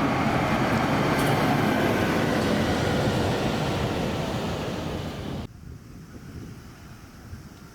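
A large bus passing close by, with loud, steady engine and road noise that eases slightly, then cuts off abruptly about five and a half seconds in to a much quieter background of low rumble.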